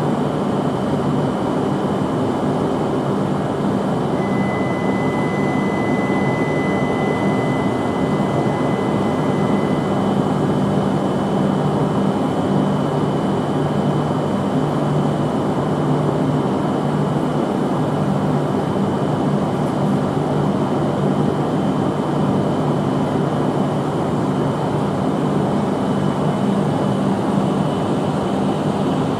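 Coupled E5-series and E6-series Shinkansen train moving slowly along a station track: a steady low hum and rumble, with a thin steady high tone for several seconds a few seconds in.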